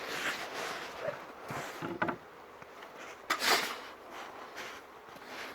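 Rustling and handling noises, most likely the phone being passed from hand to hand, with one louder brushing sound about three and a half seconds in.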